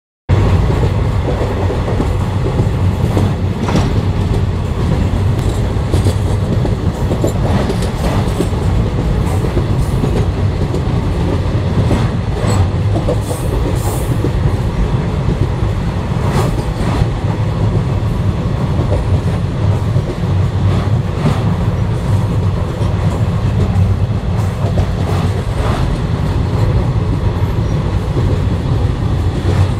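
Express train running at speed over a river bridge, heard from inside a passenger coach: a steady, loud rumble of wheels on rails, with scattered clicks and clacks.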